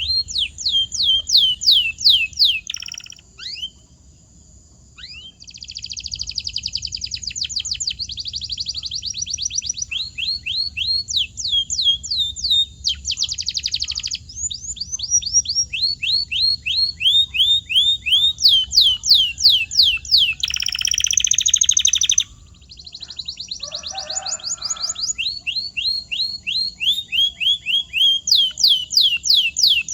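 Domestic canary singing: long trains of rapidly repeated high falling notes and trills, each train at a steady rate before switching to the next, with a short pause about four seconds in.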